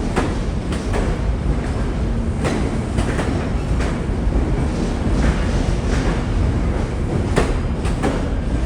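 Passenger train running past with a steady rumble, its wheels clacking irregularly over rail joints.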